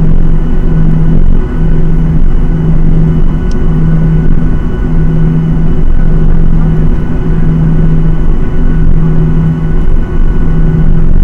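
Loud steady drone of a Boeing 737-800's CFM56 jet engines heard inside the cabin. A low hum swells and fades about once a second, the beat of the two engines running at slightly different speeds.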